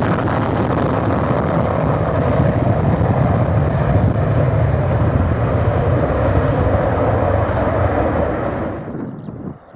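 Loud, steady jet noise from a Tornado GR4's twin RB199 turbofans, dying away quickly near the end.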